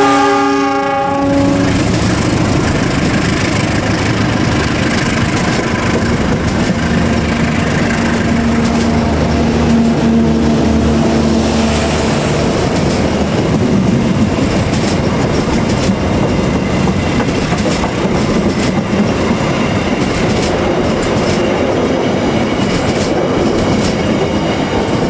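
A KAI CC 206 diesel-electric locomotive's horn ends about a second in. Its engine drones as it pulls a passenger train away. From about halfway, the passenger carriages roll past with a steady clickety-clack of wheels over rail joints.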